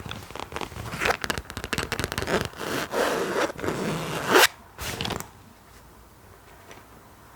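Close-miked ASMR scratching: quick, crackly scrapes in fast succession, with one louder sweeping scrape about four seconds in. It stops a little after five seconds, leaving only faint background.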